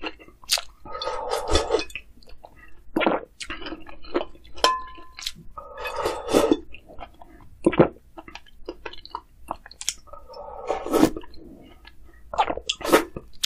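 Close-up chewing and wet mouth sounds of someone eating dumpling soup and kimchi, in short bites with a few longer stretches of chewing. A brief clink rings out about five seconds in.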